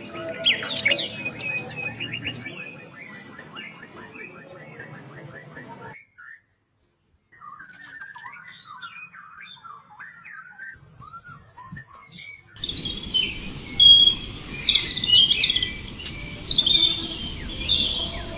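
Songbird calls in three abruptly changing stretches: first a rapid trill with other chirps, then, after a second of silence, scattered short chirps, then from about two-thirds of the way in a louder, dense chorus of many birds chirping.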